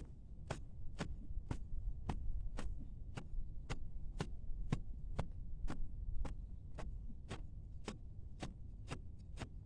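Evenly spaced sharp clicks or taps, about two a second, over a low steady rumble.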